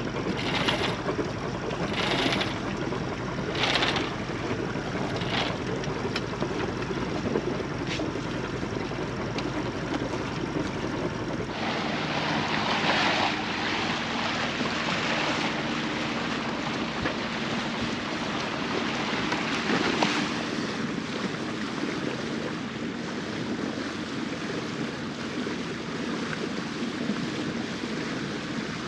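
Small sailboat under way under motor: a steady engine hum under the rush of water along the hull, with wind on the microphone gusting several times in the first few seconds.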